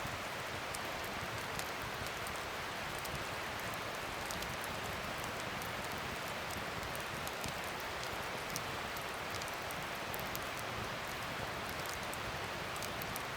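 Wood fire burning: a steady hiss with many small, scattered crackles and pops.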